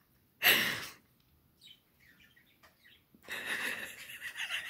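A pet bird singing and chirping, faint in the middle and fuller in the last second or so, with a short loud burst of noise about half a second in.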